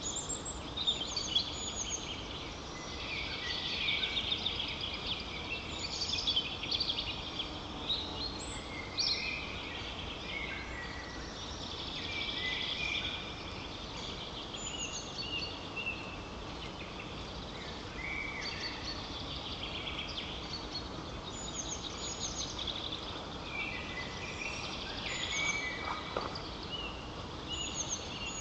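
Many small songbirds singing and calling at once in spring woodland, their short high phrases overlapping throughout, over a steady low background hiss.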